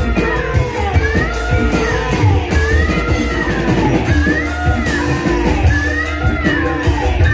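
Live Banyumasan ebeg gamelan music: hand-drum strokes and gong beats under sustained metallophone pitches, with a high melody that keeps swooping up and down in arching phrases.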